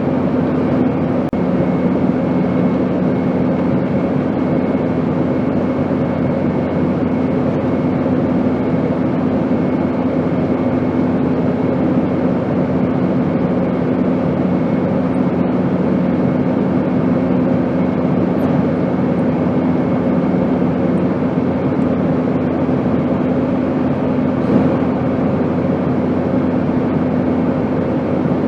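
Airplane noise held steady: an even rushing drone with a low hum and a faint high whine, unchanging in level.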